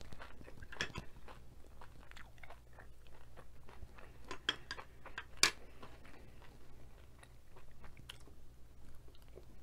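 Close-up chewing and crunching of cheese-covered tortilla chips: an uneven string of crisp crunches, the sharpest about five and a half seconds in.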